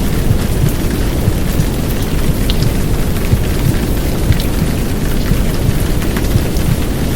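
Steady, dense rushing noise, heaviest in the low end: a simulated womb sound mixed with downpour rain, with a faint patter of individual drops on top.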